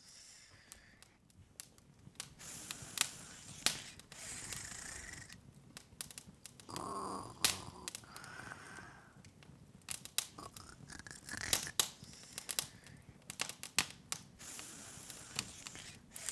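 Open wood fire crackling, with irregular sharp pops and snaps over a soft hiss.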